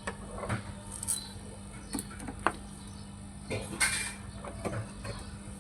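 A scattering of light clicks and knocks, about a dozen, from parts and wires being handled, over a steady low electrical hum.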